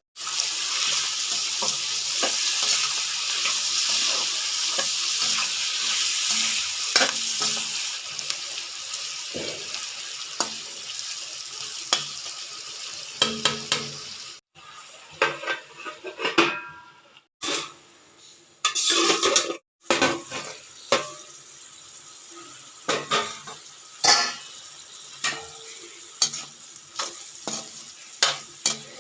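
Wet multani mitti clay paste being stirred and mixed with water: a steady fizzing hiss for the first dozen seconds, then scattered clicks and short wet squelches with a few abrupt cuts.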